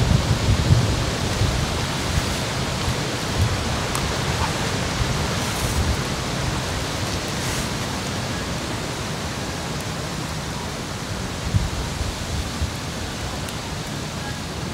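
Steady outdoor hiss with low rumbling bumps, strongest about the first second, and a few faint clicks.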